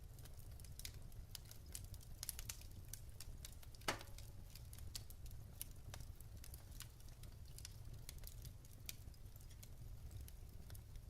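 Wood fire burning in a fireplace, crackling: scattered small pops and clicks over a steady low rumble, with one louder pop about four seconds in.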